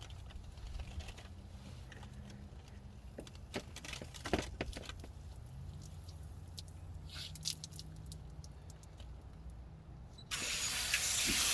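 A low hum with a few clicks and knocks, then near the end water suddenly gushes on through the shower assembly fed by the tankless water heater: a loud, steady hiss.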